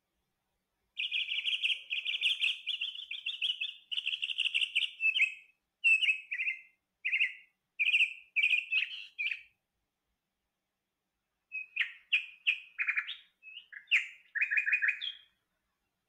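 A songbird singing: a long run of rapid chirping notes, then a string of short separate phrases. After a pause of about two seconds comes a second burst of varied notes.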